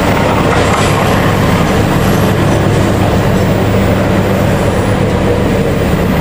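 Passenger train coaches rolling away on curved track: a loud, steady rumble of wheels on the rails.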